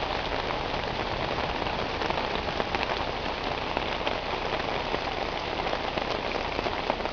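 Steady heavy rain falling on a cat-cut silnylon tarp, a dense even hiss with scattered individual drop ticks.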